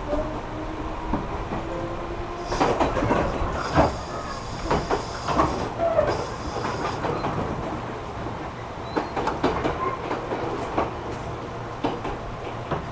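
JR 205 series electric commuter train running, heard from inside the passenger car: a steady low rumble with a dense run of wheel clacks over the rail joints and a high hiss from about two and a half to seven seconds in, then scattered clacks.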